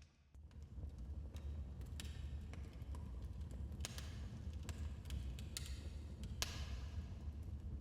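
Wood fire burning in a fireplace: irregular sharp crackles and pops over a steady low rumble of the flames, with the loudest pop about six and a half seconds in.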